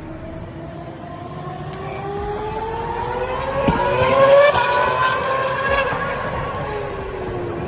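Formula 1 car's engine revving, its pitch climbing steadily to a peak about four seconds in, then easing back down.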